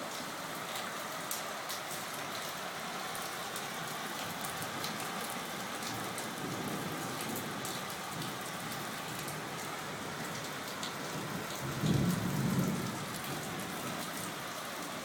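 Rain falling steadily, with many sharp ticks of drops striking a surface, and a short low rumble of thunder about twelve seconds in.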